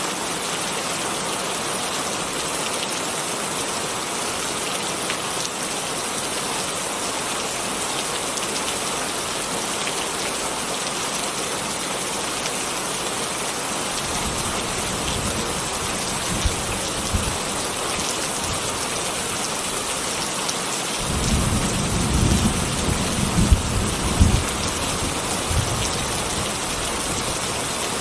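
Steady heavy rain falling, with rolling thunder rumbling in about halfway through and growing loudest in a few swells near the end.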